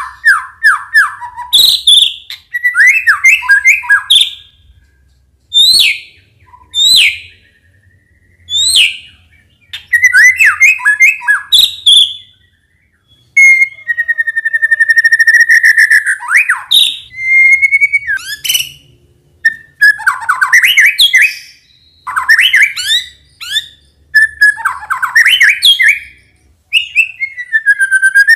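White-rumped shama singing loud, varied phrases of clear whistles, quick trills and sharp chirps, with short pauses between bursts.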